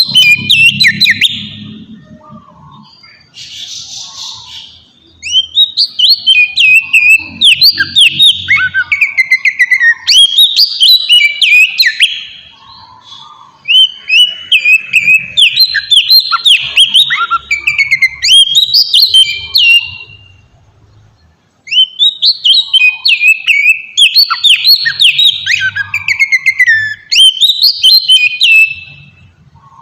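Oriental magpie-robin (kacer) singing loudly in long bursts of rapid, varied whistled phrases with short pauses between them. This is a challenging song used as a lure to make other kacer answer.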